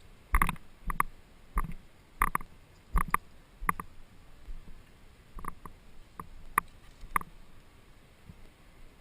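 Kayak paddling: a run of sharp knocks about every two-thirds of a second for roughly four seconds as the paddle strikes, then a few more scattered knocks a couple of seconds later.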